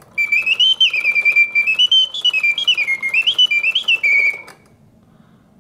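Vintage German mechanical singing bird cage, its bellows-driven whistle playing a warbling birdsong of sliding, stepping notes. The song stops about four and a half seconds in as the mechanism goes into its pause.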